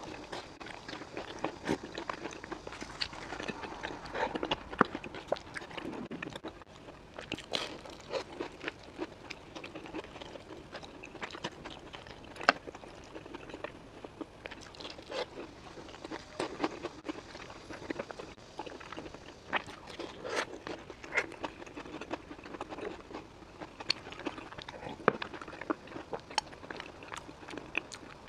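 Close-up biting and chewing of a flaky pumpkin pie pastry with black sesame filling: irregular crisp crackles and clicks of the crust, with a few sharper bites.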